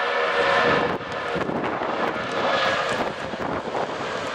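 Boeing 757 jet engines running: a steady whine over a broad rush of engine noise, which drops suddenly about a second in and leaves a broad jet roar.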